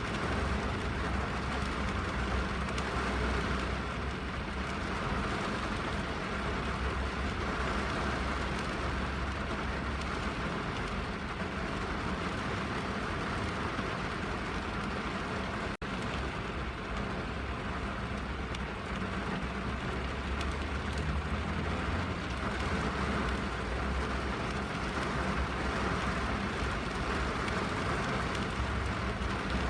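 Steady rain on a car's roof and windows heard from inside the cabin, with a low rumble underneath. The sound cuts out for an instant about sixteen seconds in.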